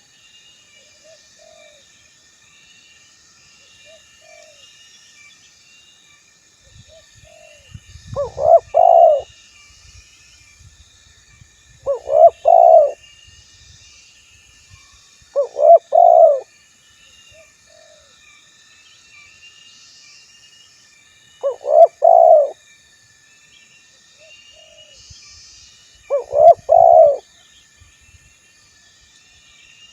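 Male spotted dove (tekukur) cooing: five loud phrases of a few coos each, every four to five seconds, with softer single coos between them. Faint chirping of other birds runs behind.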